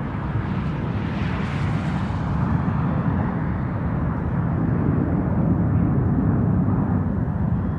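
Jet engine noise from an arriving Boeing 777-200ER's Rolls-Royce Trent 800 engines: a heavy, steady rumble, with a higher hiss that swells about a second and a half in and then fades.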